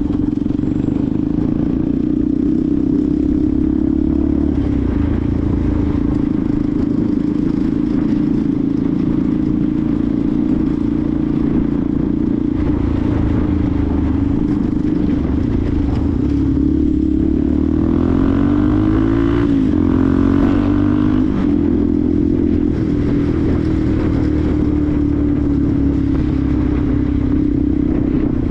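Benelli TNT 125's single-cylinder engine running steadily on the move, its pitch rising and then dipping briefly about two-thirds of the way in as the revs change.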